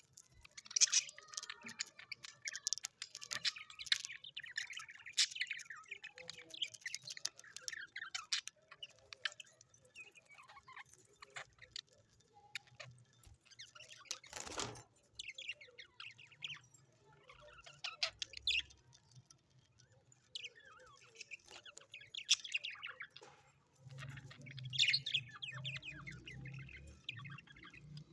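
Small birds chirping and twittering in quick, rapid bursts that come and go. There is one sharp click about halfway through and a low hum near the end.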